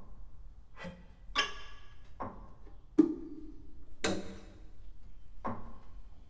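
Sparse contemporary chamber-ensemble music: about six isolated percussive strikes and short instrumental attacks with gaps between them. The sharpest, about three seconds in, is a dry knock with a low ringing tail.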